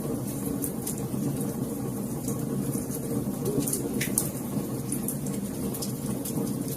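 Wood fire crackling in a fireplace: a steady low rumble of flame with irregular small pops and snaps, and one louder pop about four seconds in.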